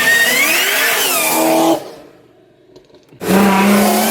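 Car engine accelerating hard at full throttle, its pitch rising, then dying away just before 2 seconds in. A second hard acceleration starts abruptly about three seconds in, again rising in pitch.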